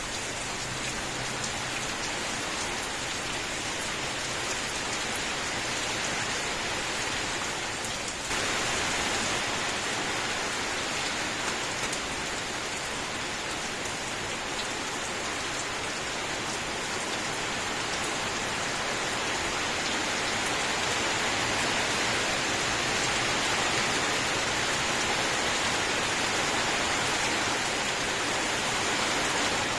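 Steady rain falling, a dense even hiss with scattered drop ticks, which jumps suddenly louder and brighter about eight seconds in and swells a little more later on.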